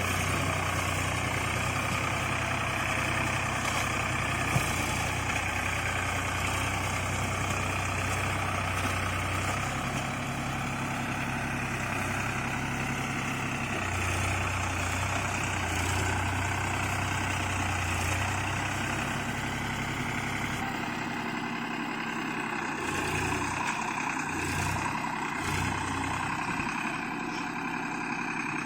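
Tractor diesel engine running steadily, with a low hum; the sound changes abruptly about 21 seconds in, when the deep hum drops away.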